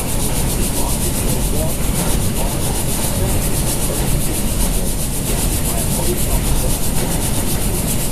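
R160 subway car running along welded rail: a steady rumble of the wheels with a high hiss, without rail-joint clicks.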